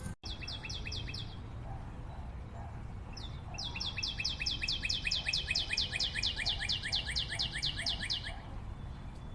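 A bird singing rapid runs of short, high, downward-slurred notes, about six a second: a short run just after the start, then a longer run of about five seconds from about three and a half seconds in. A steady low background rumble lies underneath.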